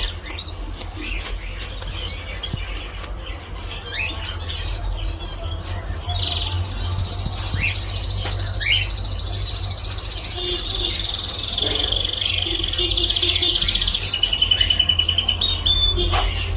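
Cockatiel chirping with short calls, then long buzzy trills from a little over six seconds in. A steady low hum runs underneath.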